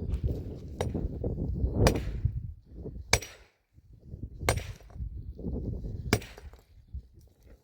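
A series of five sharp, hard strikes, roughly a second to a second and a half apart, each with a brief bright ring, like chopping or knocking on something hard, with low handling rustle between the strikes.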